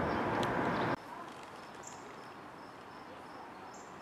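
The rumble of a passing train cuts off abruptly about a second in, leaving a faint outdoor background with insects chirping in a steady, regularly repeating pattern.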